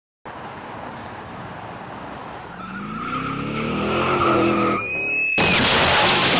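A car engine revving up, rising in pitch, then a high tyre squeal about five seconds in, followed by a loud rushing noise of skidding or impact.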